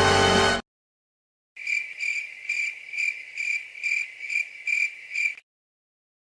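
Crickets chirping sound effect, the stock 'awkward silence' gag: a high, even chirp repeated about twice a second for nearly four seconds. It follows a short moment of silence after a music cue cuts off.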